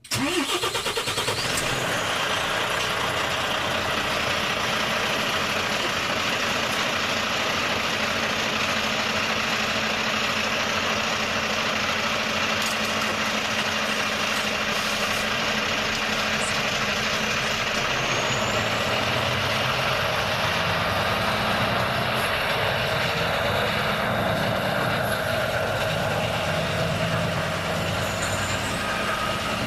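Volvo FH truck on the move: a steady engine drone under dense road and tyre noise. The low engine note changes about two-thirds of the way through.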